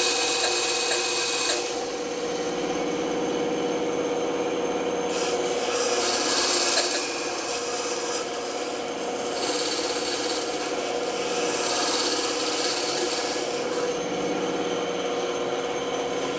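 Band saw running with a steady hum while its blade cuts through wood in several stretches of a second or two each, the cutting hiss swelling and fading as the piece is fed.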